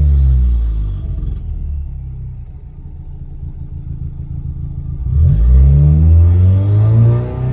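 Straight-piped Ford Fiesta ST turbocharged engine being revved for the misfire profile relearn: the revs fall away from high, it runs low and rough for about four seconds, then it is revved up sharply about five seconds in and held high, dropping back near the end.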